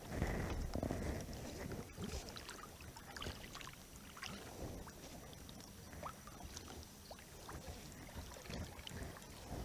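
Small waves lapping against a kayak hull, with scattered light knocks and ticks. A low rumble dies away in the first second or so.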